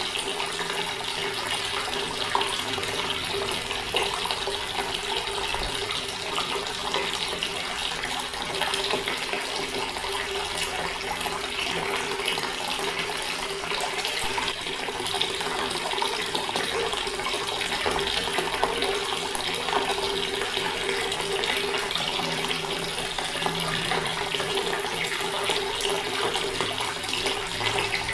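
Water tap running in a steady stream, splashing continuously.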